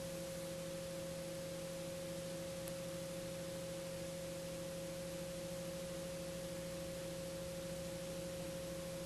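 Steady electrical hum of several fixed tones, the strongest a mid-pitched note, over a constant hiss.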